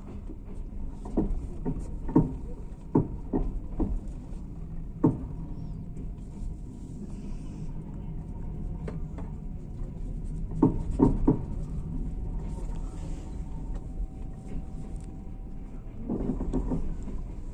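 Passenger train carriage rolling slowly through a station: a steady low rumble with irregular sharp clacks of the wheels over rail joints and switches, several in the first few seconds, a cluster about 11 seconds in, and a quicker run near the end.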